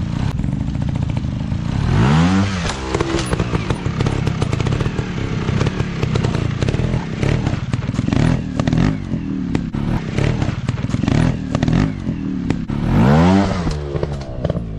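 Dirt bike engine running, revved up and back down about two seconds in and again near the end, with clattering knocks throughout.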